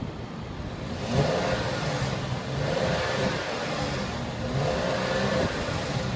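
Mercedes-Benz ML350's V6 engine running just after start-up and being revved, getting louder about a second in and swelling a few more times.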